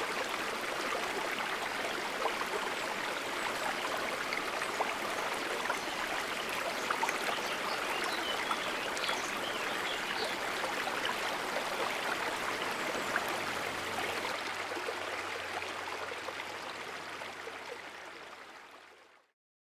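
Stream water running, a steady rush with small trickles and splashes, that fades out to silence near the end.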